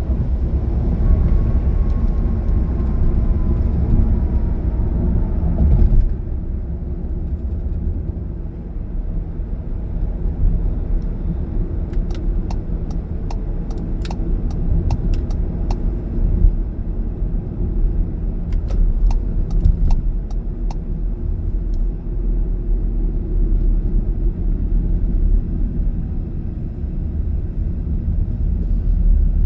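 Car driving on the road: a steady low rumble of engine and tyres, with a faint falling whine over the first few seconds and a run of regular clicks, about two a second, for several seconds in the middle.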